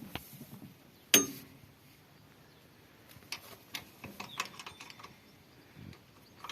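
A single sharp knock about a second in, then a scatter of light clicks and taps through the middle.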